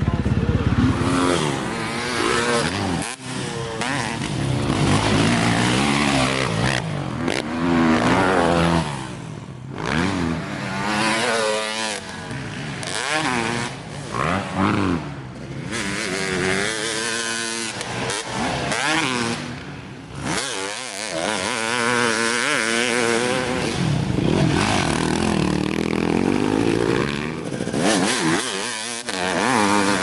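Motocross dirt bike engine revving hard and easing off over and over, its pitch rising and falling with throttle and gear changes.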